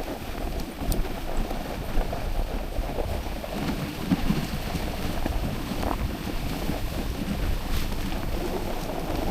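Wind buffeting the microphone over the steady, rough noise of a dog sled moving across snow, with a few faint clicks and knocks.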